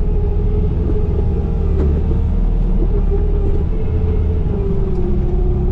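Diesel engine of a Bobcat compact machine (E35 mini excavator or T595 skid steer) running steadily under work, a low drone with a steady whine over it.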